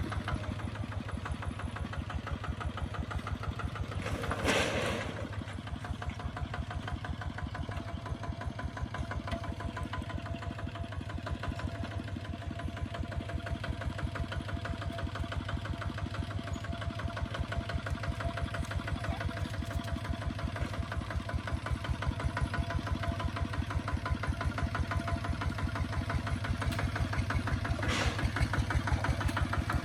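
Kubota ZT 155 DI single-cylinder diesel engine running steadily with an even, rapid chugging. A brief louder rush of noise comes about four seconds in, and a fainter one near the end.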